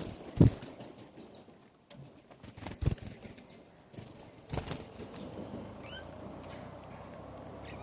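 Birds at a feeder: three dull thumps, the loudest about half a second in, with short high chirps scattered between them.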